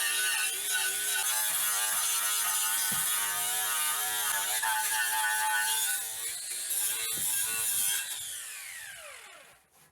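Mini grinder with a wire brush wheel running at speed, a steady whine that wavers slightly. It is switched off about eight seconds in and its whine falls in pitch as it spins down to a stop.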